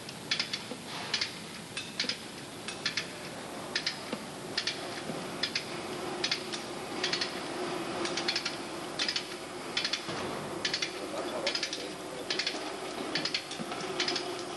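Ratchet spanner being worked in short strokes: a quick group of clicks from the pawl about every second.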